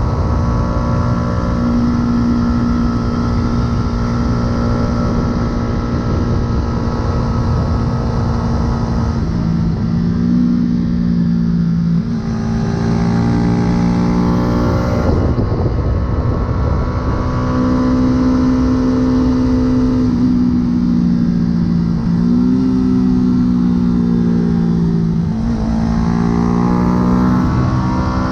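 Yamaha R125 motorcycle's single-cylinder four-stroke engine running through a full aftermarket exhaust while riding. The note holds steady at first, then steps down and up in pitch several times from about a third of the way in, and rises near the end.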